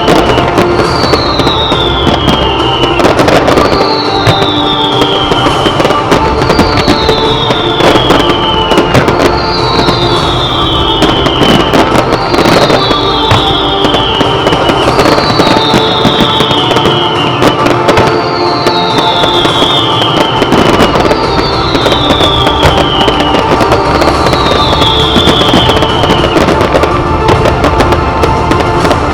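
Fireworks bursting in rapid succession, many bangs and crackles, over loud music for the pyromusical. A high falling tone recurs about every three seconds.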